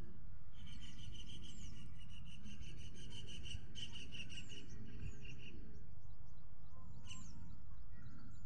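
Small birds chirping, with a fast run of repeated high notes, about five a second, that stops about halfway through, and a few short falling whistles, over a steady low background rumble.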